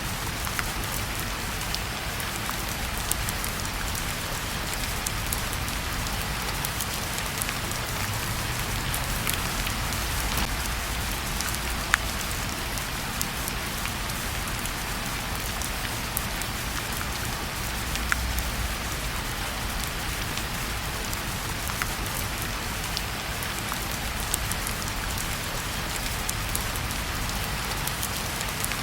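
Steady rain, an even hiss of falling drops, with scattered sharp clicks and ticks, a louder one about twelve seconds in.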